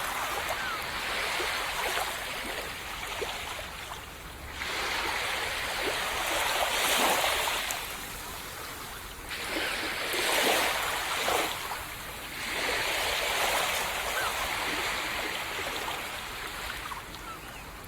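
Small ocean waves breaking and washing up a sand beach, a steady surf hiss that swells and eases in surges every few seconds.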